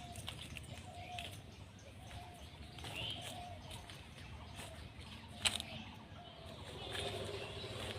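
Birds chirping and calling, with a sharp click about five and a half seconds in.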